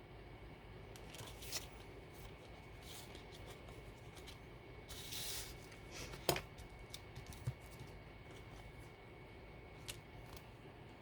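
Paper and craft supplies being handled on a desk: scattered light rustles and taps, with a short rustle about five seconds in and a sharp click about a second after it.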